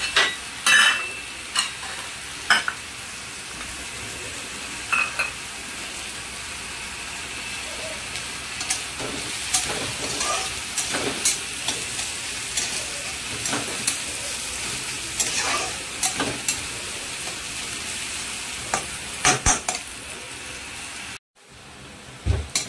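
Chopped onion, garlic, curry leaves and green chillies sizzling steadily in hot oil in a pan, with a utensil stirring and clicking against the pan every second or so. The sound cuts out for a moment near the end.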